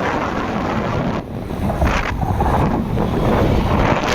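Wind buffeting the camera microphone on a moving motorbike, a loud, steady rush with road and traffic noise underneath.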